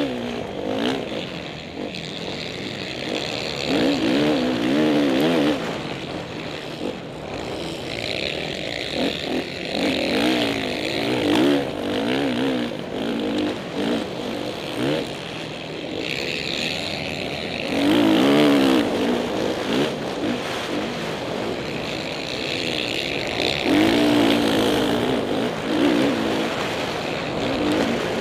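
Motocross dirt bike engines revving, their pitch rising and falling again and again as the bikes accelerate and shift.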